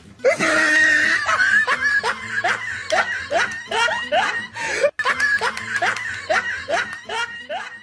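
Laughter: a quick run of short, rising, squeaky laughs, about three a second, broken off briefly about five seconds in.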